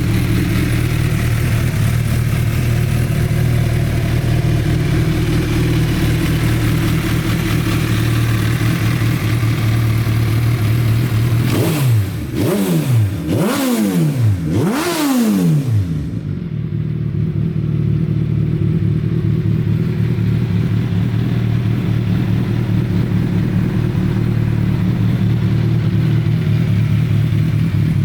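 Suzuki B-King's 1340 cc inline-four engine idling steadily. About halfway through, the throttle is blipped several times in quick succession, the revs rising and falling each time, before it settles back to idle.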